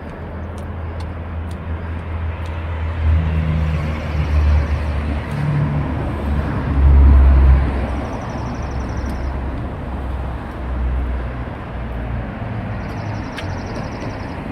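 Steady low rumble and road noise of a car in motion, swelling louder about seven seconds in.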